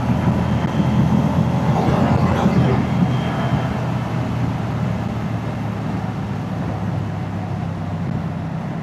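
Moto Guzzi motorcycle's V-twin engine and exhaust running steadily under way, getting slowly a little quieter from about three seconds in.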